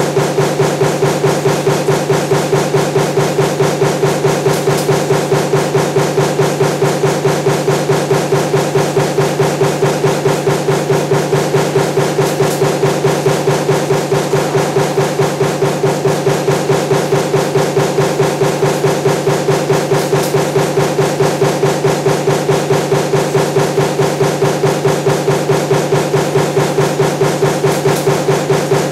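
Power punch press running a stamping die for table fan motor parts, striking in a fast, even rhythm of several strokes a second over a steady mechanical hum.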